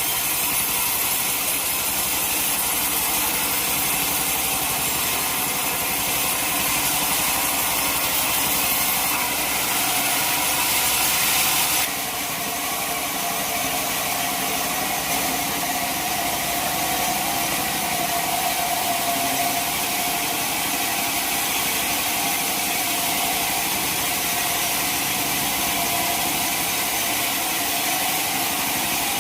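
Sawmill machinery running steadily, an engine-driven saw heard between or at the end of a cut through teak. About twelve seconds in the sound drops slightly and settles into a steadier running note.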